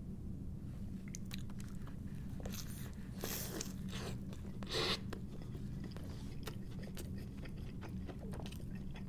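Close-miked biting into a crispy breaded chicken sandwich on a soft sesame bun, with two loud crunchy bites, a little over three seconds in and near five seconds in, then chewing with many small wet clicks. A steady low hum runs underneath.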